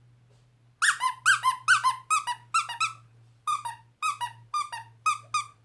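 A quick run of short, high squeaks, each dropping in pitch, in two bursts with a brief pause between.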